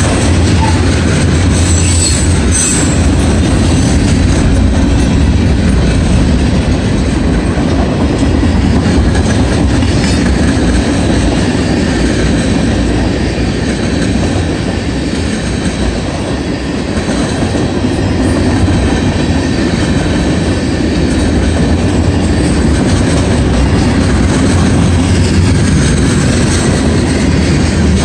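CSX mixed manifest freight train rolling past, its cars' wheels making a loud, steady rumble and clatter on the rails. A brief high wheel squeal comes about two seconds in.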